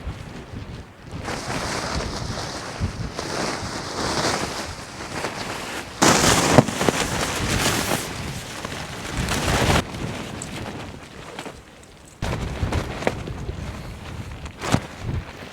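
Storm wind of around 46 to 50 mph buffeting the microphone in loud gusts, the rushing noise surging and dropping suddenly several times, strongest about six to ten seconds in.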